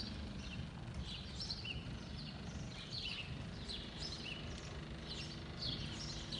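Small birds chirping, short high chirps coming a few times a second, over a steady low rumble.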